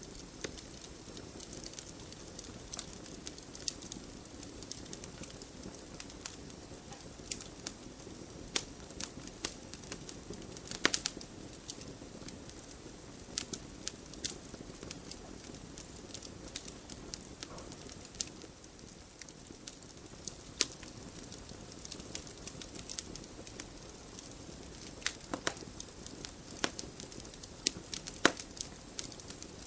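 Wood fire burning in a fireplace: a steady soft rushing of the flames with frequent sharp, irregular crackles and pops from the burning logs, a few louder snaps among them.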